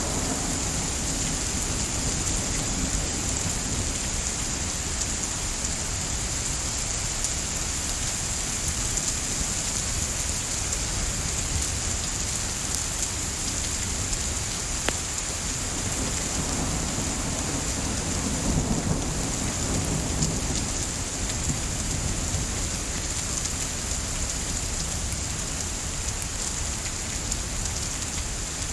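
Steady rain with a few faint pops of a crackling wood fire. A low rumble swells for a few seconds just past the middle.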